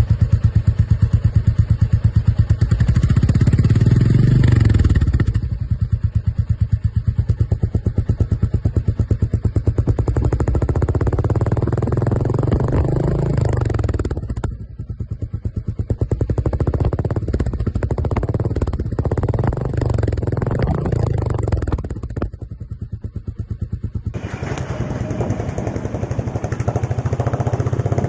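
Royal Enfield Bullet 350's single-cylinder engine thumping through its exhaust in fast, even beats, revved up and easing off three times. The sound changes abruptly a few times.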